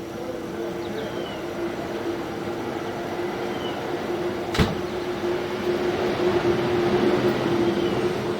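Steady mechanical hum with one sharp click about four and a half seconds in; the hum grows a little louder near the end.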